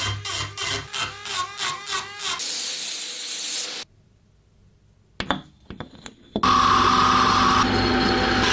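Quick repeated rubbing strokes on metal, about four or five a second, then a spray-can hiss for about a second and a half. After a short gap come a few sharp clicks, and a steady electric power tool starts running near the end.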